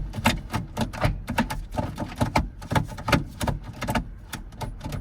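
Gear shifter of a Toyota MR2 SW20, fitted with new 808 shifter cables, being worked through the gates: a quick, uneven run of mechanical clicks and clunks, several a second.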